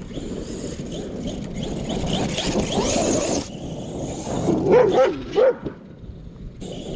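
A dog yipping and whining, a few short wavering calls about five seconds in, over a steady rushing noise that builds up and then drops off.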